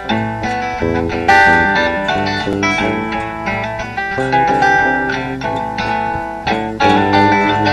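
Instrumental break of a song: guitars playing, the notes plucked and strummed.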